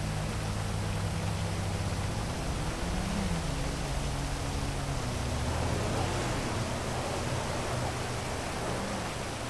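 Heavy rain falling steadily over a city, with a low hum of traffic beneath it; a few engine notes rise and fall in pitch as vehicles pass, and the low hum thins out near the end.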